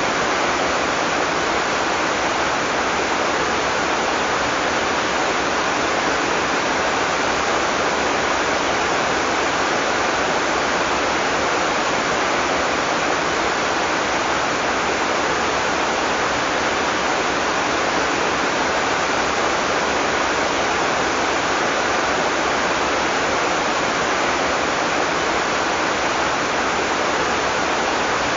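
Heavy tropical rain falling steadily, a constant dense hiss with no thunder.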